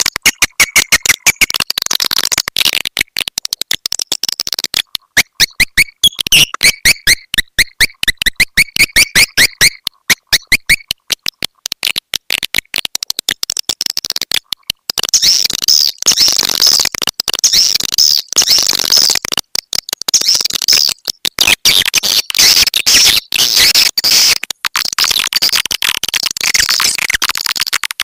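Swiftlet lure call ('walet petir'), a looped recording of swiftlet twittering used to summon swiftlets to a nesting house. It runs as rapid chirps chopped into quick pulses, with a stretch of lower, falling chirps in the first half, a brief dip about halfway, then denser high twittering.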